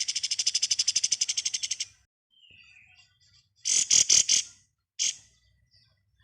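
Kapas tembak bird singing its fast rattling 'ngebren' trill, a rapid run of evenly spaced high notes for about two seconds. Then, after a short pause, a burst of four sharp notes and a single note a second later.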